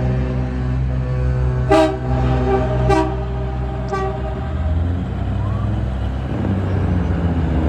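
Truck engines running steadily while a vehicle horn sounds, the horn fading out about halfway through. There are three short sharp bursts about a second apart.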